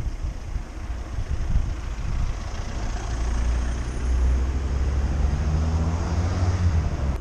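A large motor vehicle's engine running close by: a low steady hum that grows stronger about three seconds in, over a rushing noise. It cuts off suddenly at the end.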